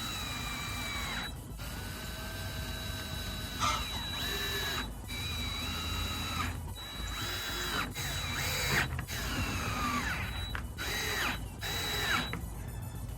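Cordless drill driving screws in a series of short runs, the motor's pitch sagging as each screw bites, with brief stops between runs.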